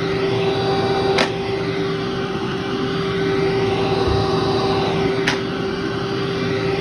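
Vacuum cleaner running steadily on carpet, a constant motor hum under a rush of suction, with two sharp clicks of debris being sucked up, about a second in and again near the end.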